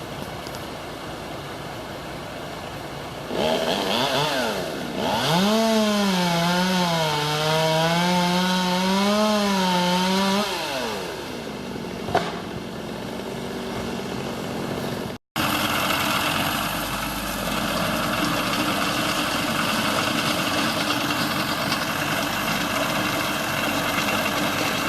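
Chainsaw engine revving up about three seconds in and running hard for several seconds, its pitch wavering as it cuts under load, then dropping back to a lower steady sound. After a sudden break a steady, noisy running sound carries on.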